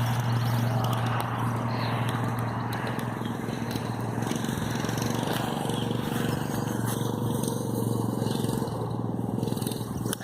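Mini bike's small engine running steadily, a constant low hum, a little fainter in the second half.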